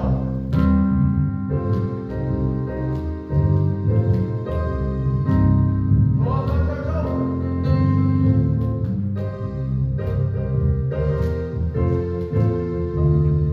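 Gospel music in church: keyboard or piano playing steady chords with singing over it.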